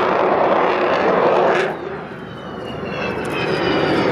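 Avro Vulcan XH558's four Rolls-Royce Olympus turbojets: loud jet noise from the bomber in flight. The noise drops off about two seconds in, then builds again with a high whine falling in pitch.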